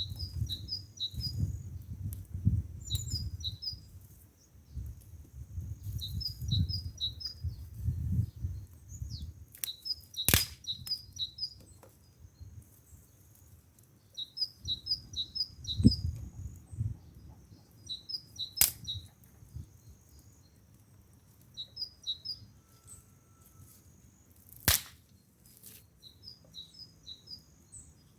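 A small bird singing short phrases of quick high chirps, repeated every few seconds. Three sharp clicks stand out, and low rumbling sounds underneath in the first third.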